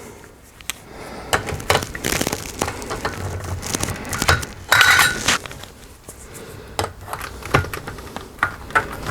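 Small screws and a screwdriver clicking, clinking and scraping against a laminator's metal frame as the screws are driven back in, with a louder scrape about five seconds in.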